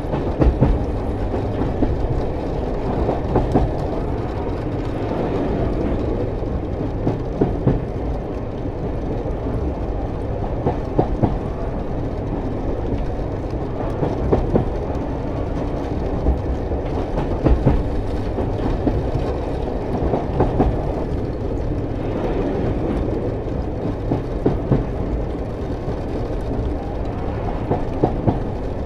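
Double-stack container freight train rolling past: a steady rumble of wheels on rail, broken by short clusters of wheel clacks every second or two.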